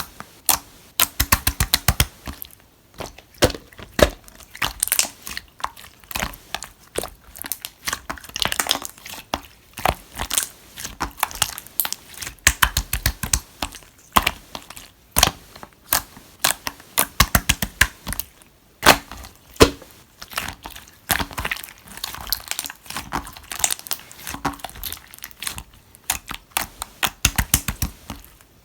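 Clear green marbled slime being squished and pressed by hand, giving rapid, irregular runs of sharp clicking and popping from trapped air.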